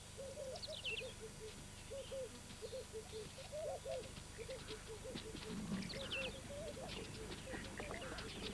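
Birds calling: a rapid string of short, low, repeated call notes, with two brief bursts of high, falling chirps, about a second in and again near six seconds.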